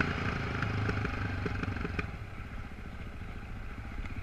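Off-road motorcycle engine running under way, with a few sharp knocks and clatter in the first two seconds; the engine eases off about two seconds in.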